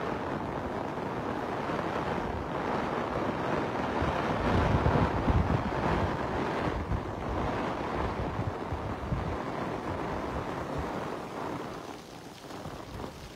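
Heavy rain pouring onto flooded paving, with gusty wind buffeting the microphone, strongest about four to seven seconds in and easing near the end.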